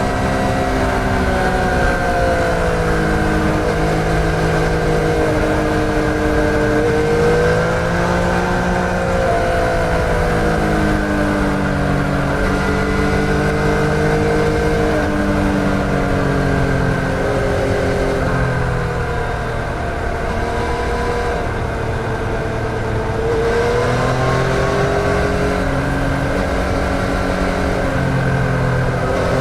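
2014 Yamaha MT-09's three-cylinder engine heard while riding, its pitch rising and falling again and again as the throttle opens and closes through a series of curves.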